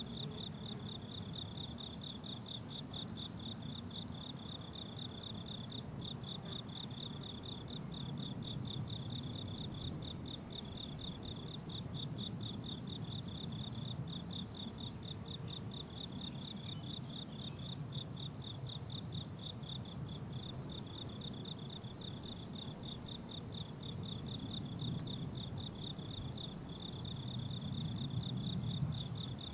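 Crickets chirping on a meadow: a high-pitched, continuous chorus of rapid, evenly repeating pulses.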